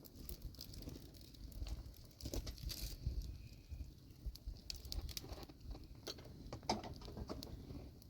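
Irregular light taps and clicks over a low rumble.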